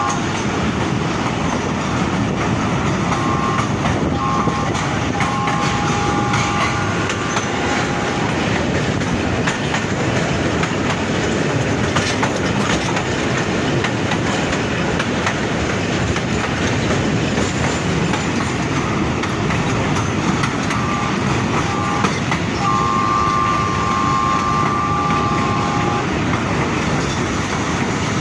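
Passenger train heard from an open coach doorway, running at speed over a bridge: a steady rumble with the clickety-clack of the wheels over the rail joints. The locomotive's multi-tone horn sounds twice in long blasts, a few seconds in and again near the end.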